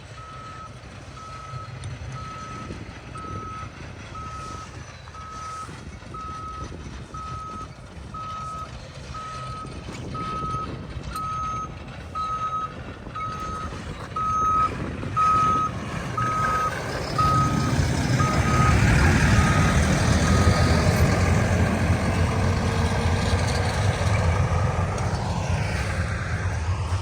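A maintenance-of-way vehicle's backup alarm beeping about once a second, with the engine of the passing vehicle getting much louder from a little past halfway and easing off near the end.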